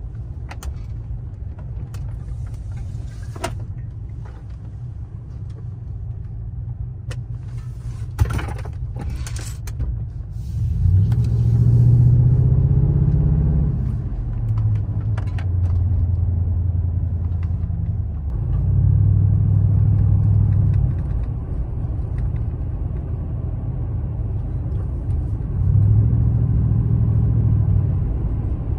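Truck engine and road rumble heard from inside the cab while driving. The engine note steps up and down several times as the speed changes. A few short clicks come about eight to ten seconds in.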